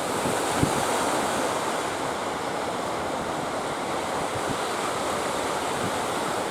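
Sea surf and strong wind: a steady rushing noise of breaking waves, with wind buffeting the microphone.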